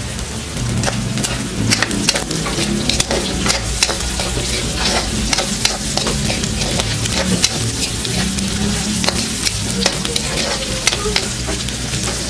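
Pork with garlic and onion sizzling in oil in an aluminium wok, stirred with a metal ladle that scrapes and clacks irregularly against the pan.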